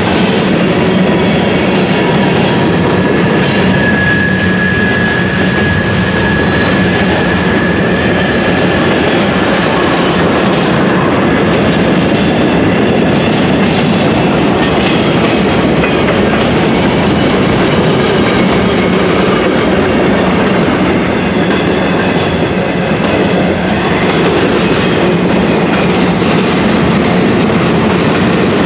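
CSX freight train cars rolling past at close range: a steady, loud rumble and rattle of wheels on rail. A thin, high wheel squeal rises briefly about four seconds in and fades a few seconds later.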